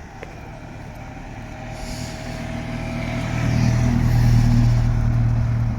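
A car engine running close by, with a low steady note that grows louder as the car draws near, is loudest about four seconds in, then falls away near the end: a car driving slowly past.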